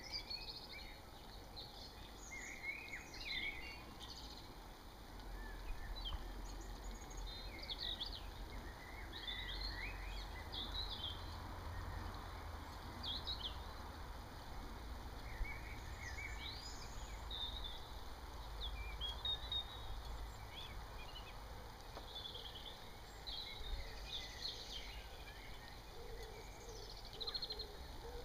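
Garden birdsong: several small birds chirping and trilling in short phrases throughout, over a steady low rumble.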